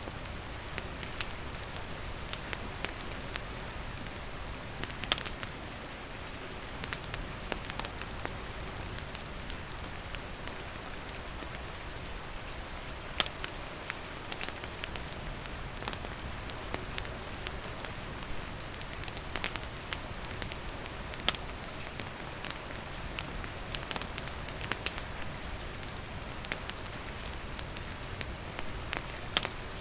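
Steady rain falling, mixed with a wood campfire crackling, its pops scattered irregularly through the rain.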